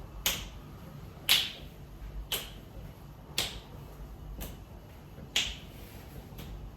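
Electric stove ticking as it heats: sharp clicks about once a second, alternating louder and softer, over a low steady hum.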